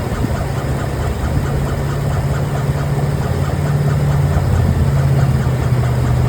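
Car heard from inside the cabin while driving: a steady low drone with a fast, even pulsing over it. This is the rhythmic 'whoop whoop whoop' noise the owner's car has developed, which she takes for a fault.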